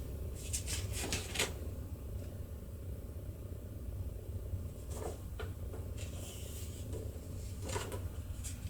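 Faint scattered rustles and light clicks of cut-out chevrons being handled as thread is strung through their punched holes, over a steady low hum.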